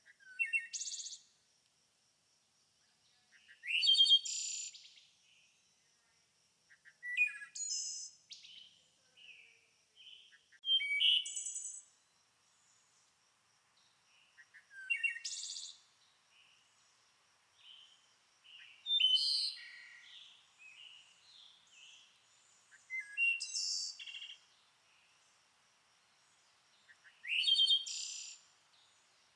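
A songbird singing short, high, warbling phrases of about a second each. There are roughly eight of them, repeating every three to four seconds, over a faint steady high note in the background.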